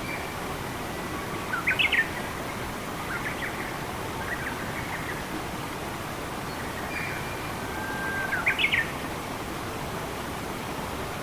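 Songbirds calling over a steady rush of running water. One bird gives the same short phrase of quick rising notes twice, about six seconds apart, with softer chirps and a thin whistle between.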